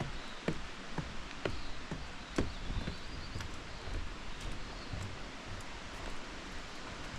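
Footsteps walking at about two steps a second over a steady background hiss of native bush, with faint bird calls.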